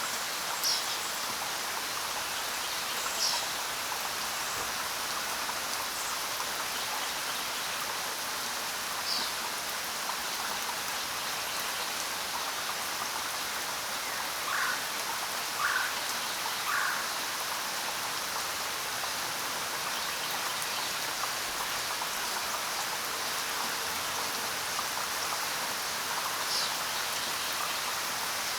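Steady rain hiss with a few short, high bird chirps scattered through it, and three lower calls in quick succession about halfway through.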